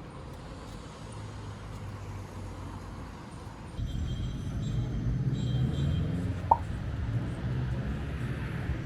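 City street ambience with road traffic rumbling, louder from about four seconds in, and one short sharp sound about six and a half seconds in.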